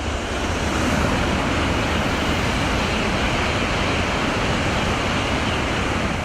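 High-speed train running at speed: a steady rushing noise of air and wheels on track, starting abruptly and holding level.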